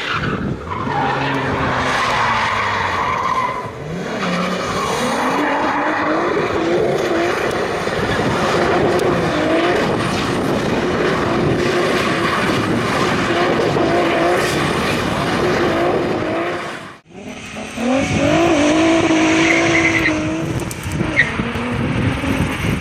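Turbocharged VR6 engine in an Audi 80 revving hard while its tyres spin and squeal in a drift, the engine pitch rising and falling again and again. The sound cuts off abruptly about 17 seconds in, then a hard-revving engine starts again, climbing and falling in pitch.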